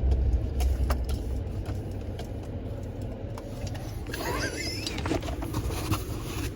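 Wind buffeting the microphone, a steady low rumble, with scattered faint clicks and a short wavering call that rises in pitch about four seconds in.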